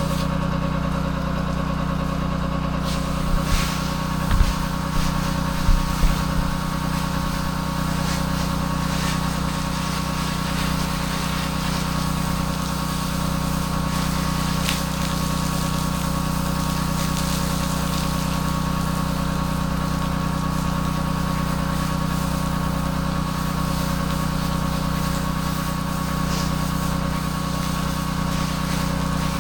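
Pressure washer's engine running at a steady speed, with a few low thumps about four to six seconds in.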